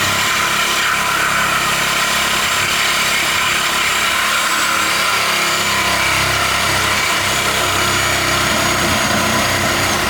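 Corded electric saw running steadily as it cuts through the steel exhaust pipe, with a thin high motor whine; it stops suddenly at the end, once the pipe is cut through.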